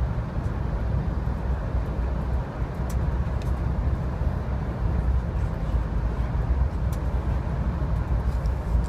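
Steady low rumble of a VIA Rail LRC passenger coach moving along the track, heard from inside the car, with a few faint ticks.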